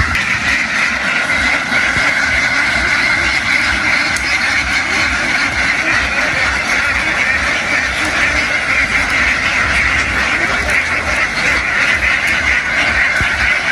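A large flock of domestic ducks quacking together, a steady mass of overlapping calls with no break.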